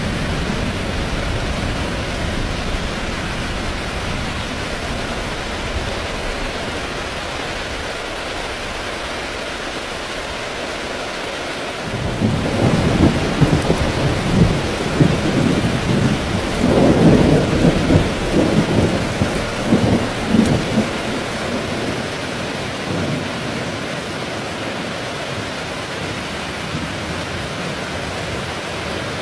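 Heavy rain falling steadily, with a roll of thunder rumbling in about twelve seconds in, swelling, then fading away over roughly ten seconds.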